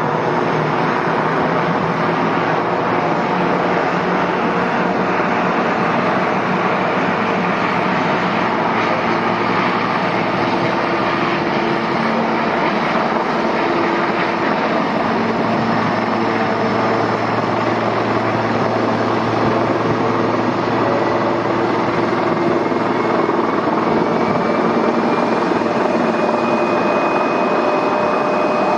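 Airliner's engines running loud and steady, with a high whine rising slowly in the last third.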